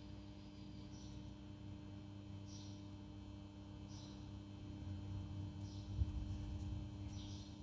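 Faint short high-pitched bird calls, five in all, about one every second and a half, over a steady low hum. A low rumble grows louder near the end.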